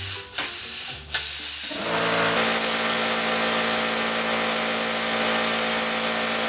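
Plasma cutter cutting steel plate. After two short starts it settles into a steady loud hiss with a hum under it as the arc cuts through the metal.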